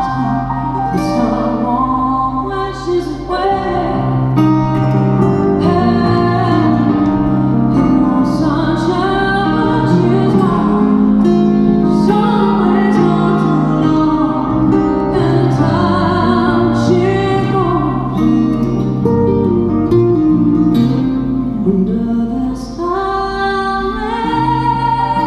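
Live acoustic band music: plucked guitar under a held, bending melody line, played continuously.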